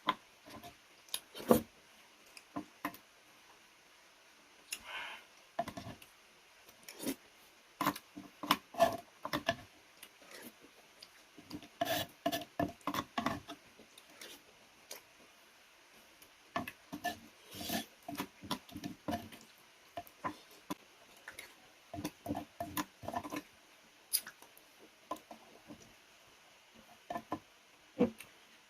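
Close-miked eating: a person chewing and smacking on food in irregular runs of short, crisp clicks and wet smacks, with short pauses between mouthfuls.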